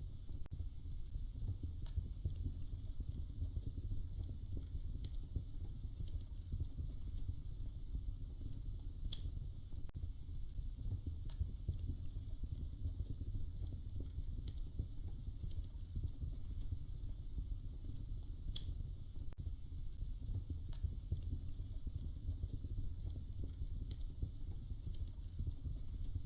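Wood fire crackling in a fireplace: a steady low rumble of flames with scattered sharp pops and snaps, one every second or two.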